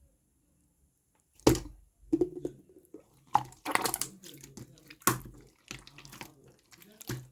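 Pink slime being squished and pressed by hand: a series of wet squelches and sticky pops, starting about a second and a half in, with a handful of louder ones among softer crackling.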